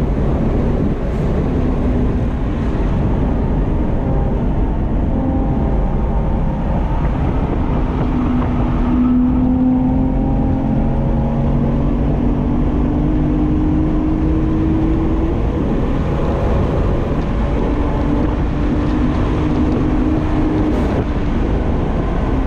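BMW 135i's twin-turbo N54 inline-six with a Berk race exhaust, driven hard on track and heard from inside the cabin. Its note climbs slowly in several long pulls over steady road and wind noise.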